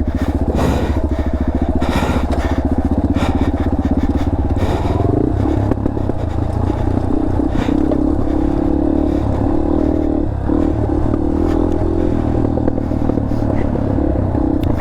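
Dirt bike engine running steadily at low revs, with a few brief knocks and scrapes in the first half.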